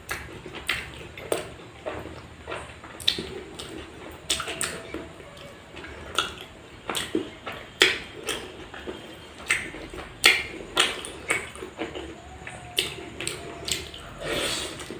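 Close-miked eating sounds: wet chewing and mouth smacks in an irregular string of sharp clicks, at times two or three a second.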